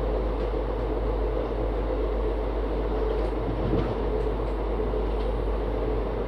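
Passenger train running at speed, heard from an open coach door: a steady rush and rumble of wheels on the track and passing air, with a few faint clicks about halfway through.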